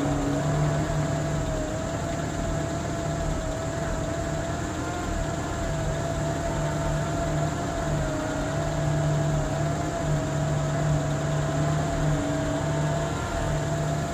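1952 Ford F3 dump truck's engine idling steadily, with a low throbbing rumble and a steady whine over it.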